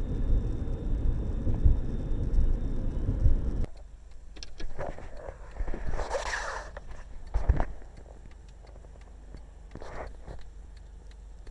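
Low road rumble inside a moving car, cutting off abruptly about four seconds in. A much quieter stretch follows, with a few brief scattered noises and a single low thump.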